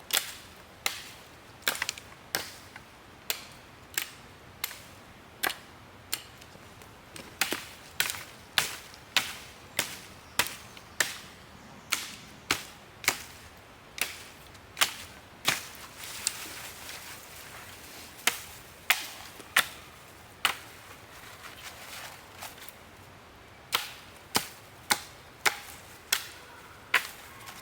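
Wood being chopped with a blade: a long run of sharp, evenly paced strikes, about two a second, pausing twice before picking up again.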